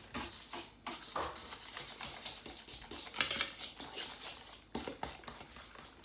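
A utensil stirring pancake batter vigorously in a bowl: quick, irregular clinks and scrapes against the bowl.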